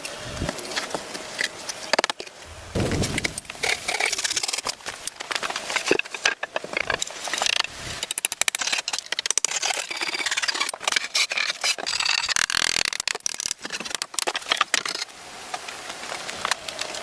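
Wood being worked by hand: irregular knocks and clicks mixed with short scraping strokes, easing off near the end.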